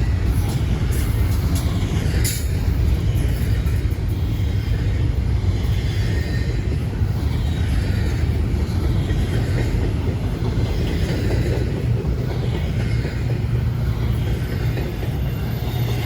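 Freight train passing, a steady low rumble of locomotives and cars on the rails.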